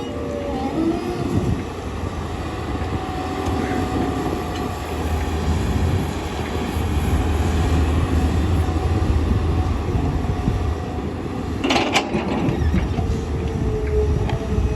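Tata Hitachi excavator's diesel engine running under load with a steady low rumble that grows louder around the middle, and a sharp clank about twelve seconds in.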